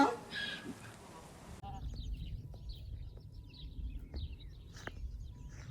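Faint, scattered bird chirps over a low steady outdoor rumble, starting abruptly about one and a half seconds in.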